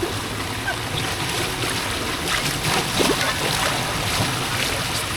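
Floodwater flowing steadily into a street storm drain, a continuous rushing of water.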